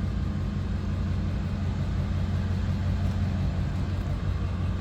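Ford 7.3-litre turbo-diesel V8 idling steadily with an even low rumble.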